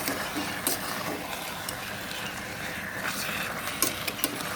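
A spoon clinking and scraping against a pan while chicken and onion masala is stirred, with a dozen or so sharp knocks over a steady sizzling hiss.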